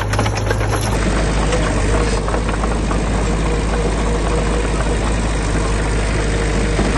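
Diesel engine of heavy construction machinery running steadily, its sound shifting slightly about a second in.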